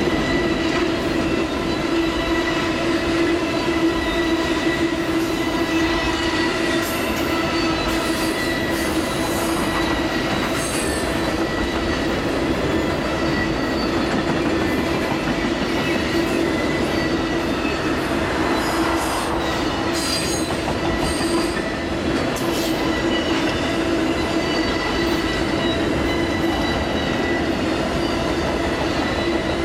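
Amtrak Auto Train cars rolling past at track side: a steady rumble of wheels on rail with a sustained metallic wheel squeal. Sharper clicking comes in twice, about a third of the way in and again past the middle.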